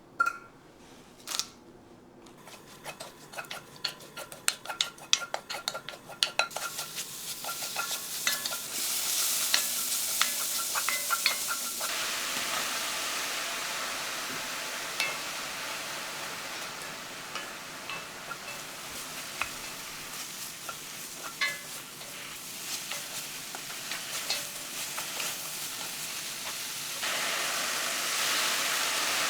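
Two sharp clinks, then a few seconds of quick utensil tapping, after which food starts sizzling in a hot frying pan and is stirred with a utensil, with occasional ticks and scrapes. The sizzle steps up louder near the end.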